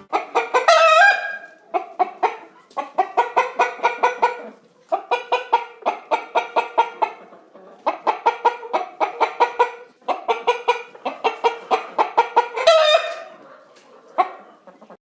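Chickens clucking in quick runs of several clucks a second, broken by short pauses, with a longer call about a second in and another near the end.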